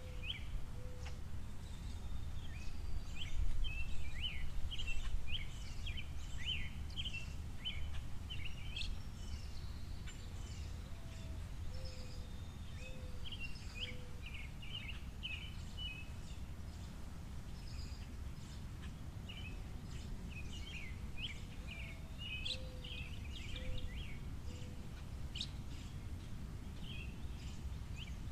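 Small songbirds chirping in quick, busy clusters of short high notes, with a few lower notes in short runs, over a steady low background rumble.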